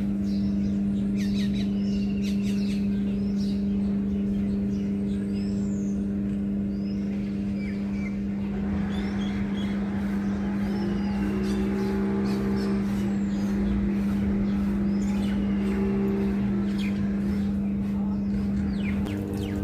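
Small birds chirping intermittently over a steady low hum; a hiss of noise joins about halfway through.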